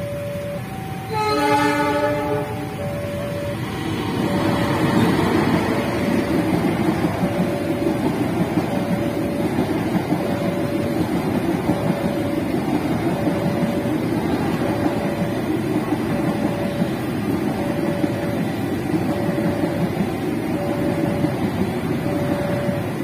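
A train horn sounds once, for about a second and a half, then a passenger train rumbles past over the level crossing. Throughout, the crossing's electronic warning bell keeps chiming about once a second.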